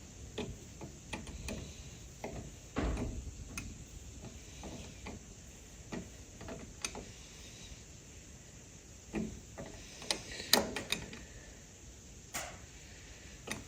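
Scattered clicks and knocks of hand tools and small metal parts being handled while fitting an ignition wire, with a duller thump about three seconds in and a quick run of sharper clicks near the end.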